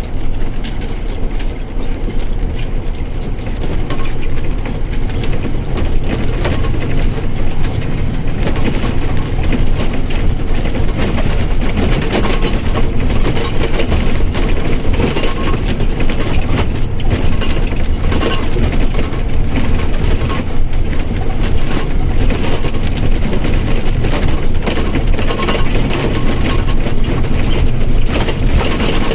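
Mercedes-Benz OF1722M Euro III bus running, with a dense, steady rattling and gear noise from its drivetrain and differential.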